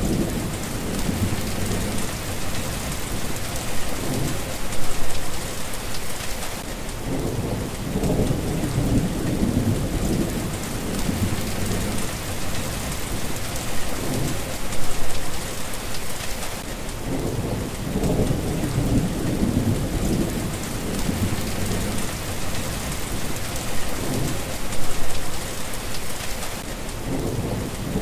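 Steady rain hissing, with low rolls of thunder rumbling under it, swelling and fading, loudest about every ten seconds.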